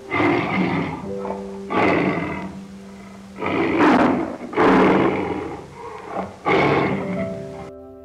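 Tiger roaring, about five loud roars of roughly a second each, over background music.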